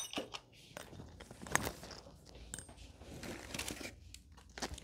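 Faint rustling and crinkling of packaging, with scattered small clicks and knocks, as merchandise is handled.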